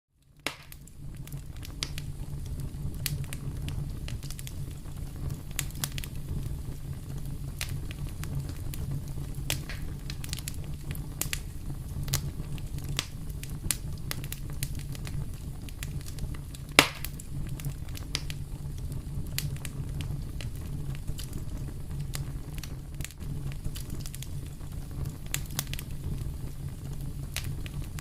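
Fireplace fire burning, with a steady low rumble of flames under frequent sharp crackles and pops. One pop past the middle is much louder than the rest.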